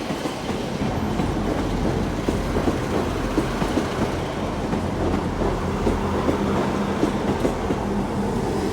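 Two coupled Class 159 diesel multiple units rolling into the platform, with a steady diesel engine hum under irregular clicking of the wheels over the track.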